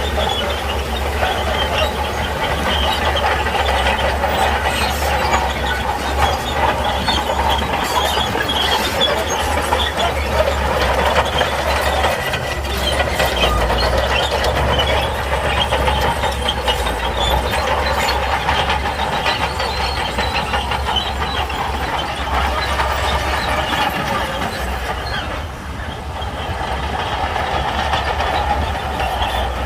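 Shantui crawler bulldozer at work: its diesel engine running steadily under the clank and rattle of the steel tracks, easing briefly near the end.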